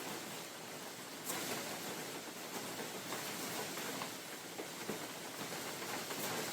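Steady rain falling in a forest: an even hiss with scattered single drops ticking through it, two sharper drops standing out about a second in and near the end.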